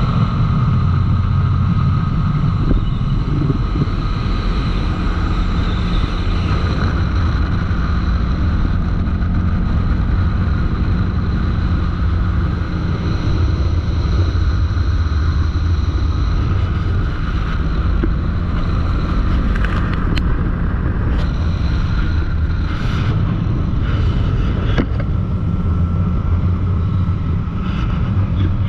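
CFMoto ATV engine running steadily while under way, with wind on the microphone. A few short knocks come in the second half.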